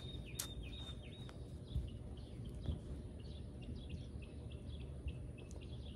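A bird chirping over and over, short high chirps about twice a second, over a low steady outdoor background rumble. There is a single sharp click about half a second in.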